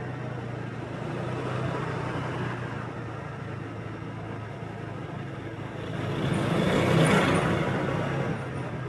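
Motorbike engine running steadily under the rush of road and wind noise while riding. A louder broad rush swells from about six seconds in, peaks a second later, then fades.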